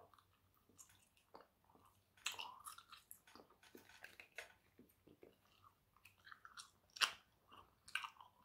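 Faint wet chewing and mouth smacks of a person chewing a soft, taffy-like chewy candy. Irregular clicks run throughout, with a bunch of them about two seconds in and the loudest smack about seven seconds in.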